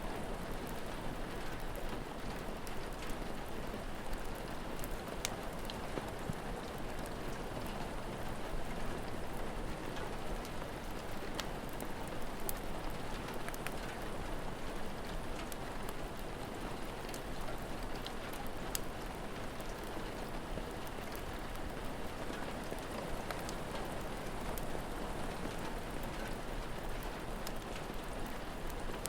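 Steady rain falling, with scattered faint sharp crackles and pops of a wood fire.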